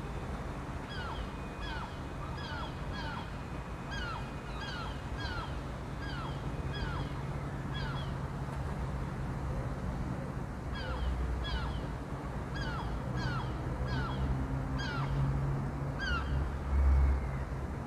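A bird calling over and over, short falling notes about two a second, in two runs with a pause between. Beneath it runs a low rumble of wind and surf, swelling near the end.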